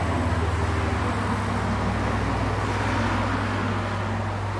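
A vehicle engine running steadily, a deep, even hum with road or rail noise over it.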